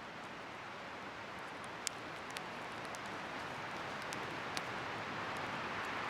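Wood bonfire burning: a few sharp crackles over a steady rushing hiss that swells slightly toward the end.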